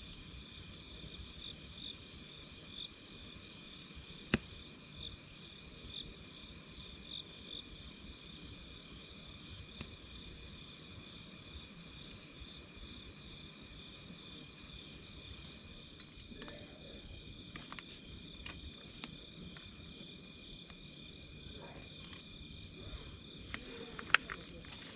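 Campfire crackling with sharp pops, sparse at first and more frequent in the second half, with one loud pop near the end, over a steady, evenly pulsing chirp of insects.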